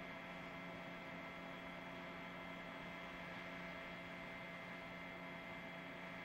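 Faint steady hum and hiss, with several fixed tones held throughout and no distinct events.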